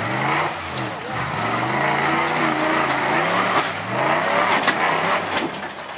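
Engine of a lifted 4x4 on 54-inch mud tyres revving up and down several times, its pitch rising and falling with each blip of the throttle.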